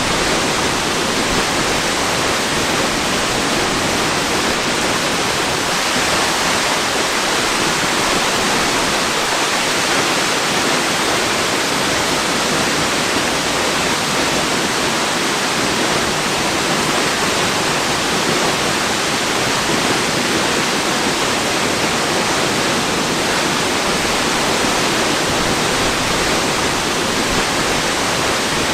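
Waterfall: a steady, even rush of falling water with no changes in level or character.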